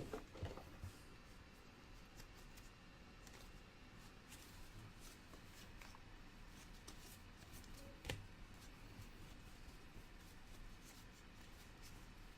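Faint soft flicks and rustles of trading cards being handled and leafed through by hand, with a sharper click about eight seconds in.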